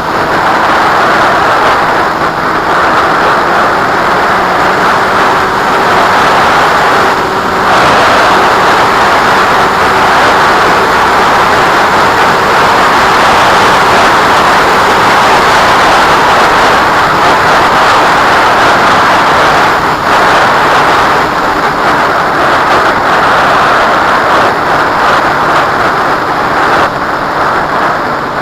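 Strong wind rushing over the microphone, a loud steady roar with brief lulls, with a faint steady hum underneath.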